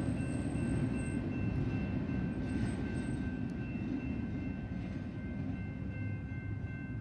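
Double-stack container freight train rolling away, a low rumble of wheels on the rails that slowly fades.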